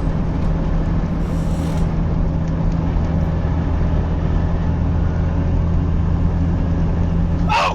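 Semi-truck engine running with a steady, unchanging drone, as a truck dash cam picks it up. It stops abruptly near the end, and a brief sharp sound comes just as it cuts.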